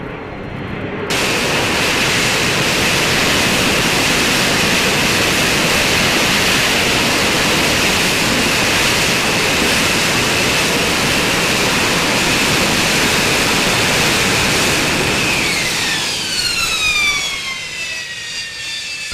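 An AV-8B Harrier II's Rolls-Royce Pegasus turbofan running at high power: a loud, steady jet roar with a high whine that cuts in about a second in. Near the end the whine falls in pitch and the roar eases.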